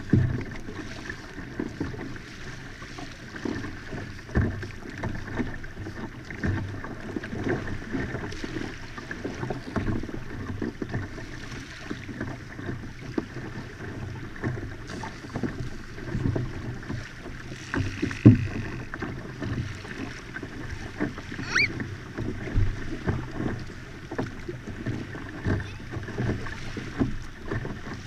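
Hobie Outback pedal-drive kayak moving through the water: a steady wash of water and hull noise with frequent small knocks and taps, one louder knock about two-thirds through and a brief rising squeak soon after.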